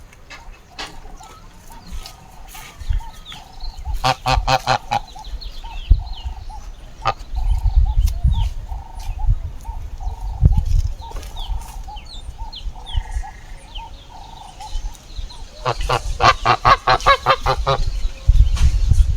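Geese honking in two bouts of rapid repeated calls, about four seconds in and again near the end, with small birds chirping faintly between them.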